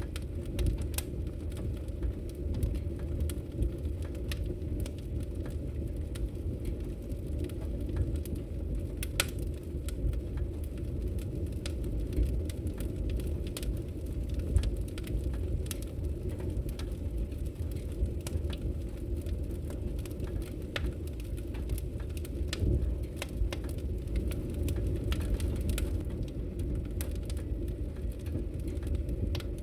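Wood logs burning in a fireplace, crackling with frequent sharp irregular pops over a steady low rumbling noise.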